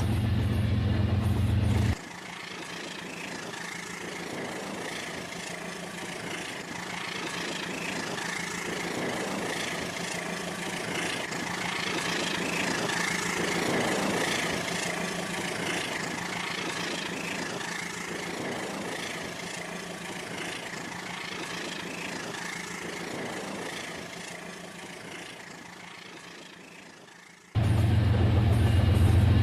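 Toy train running: a steady whirr with a faint steady tone, swelling to its loudest about halfway through and fading again. A louder, deeper hum at the start cuts off abruptly about two seconds in and returns abruptly near the end.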